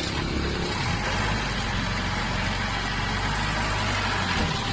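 A pickup truck's engine running as the truck passes close by: a steady low engine hum over an even hiss.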